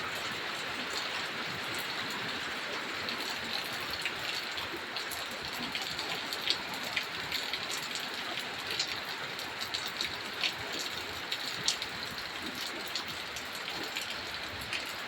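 Heavy rain pouring down steadily, with sharp ticks of individual drops striking close by, more frequent from a few seconds in.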